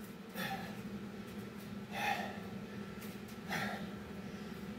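A man breathing hard from the exertion of burpees: three loud, gasping breaths about a second and a half apart.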